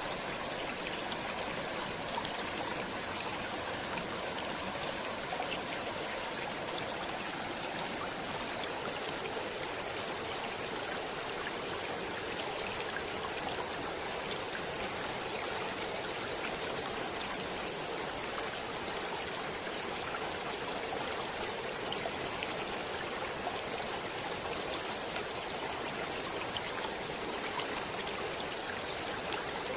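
Stream water running steadily: a constant rush with fine splashes and trickles over it.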